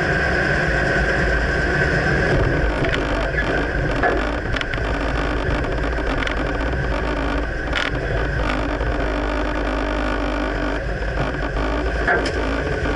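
2009 Dodge Ram pickup under way, steady engine and road noise, with a few short sharp knocks scattered through: the clunk from the right rear side that the owner cannot pinpoint.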